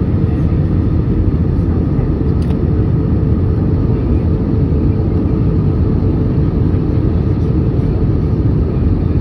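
Airliner cabin noise: a steady, loud, low rumble of jet engines and rushing air heard from a window seat inside the passenger cabin.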